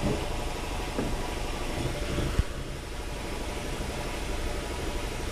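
VW Tiguan 2.0 TSI four-cylinder engine idling steadily while misfiring on a bad ignition coil, with one short sharp click about two and a half seconds in.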